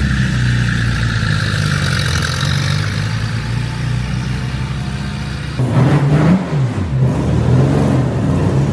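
Car engines running at low speed. About five and a half seconds in, a louder engine comes in, its pitch rising briefly and then dropping.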